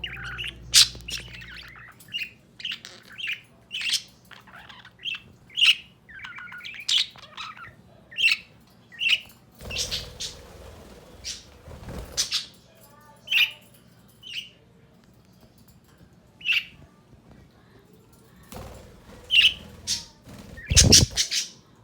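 Pet budgerigars chirping and squawking in short, high calls, about one a second, thinning out after the middle. A few rustling noises come in between, with a louder thump near the end.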